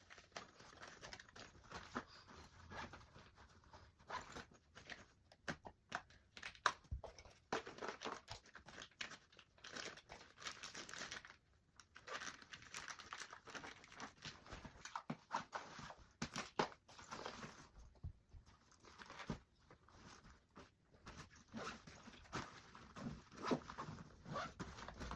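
Faint handling noise of small items being packed into a bag: irregular rustling and crinkling with scattered light clicks and taps, pausing briefly twice.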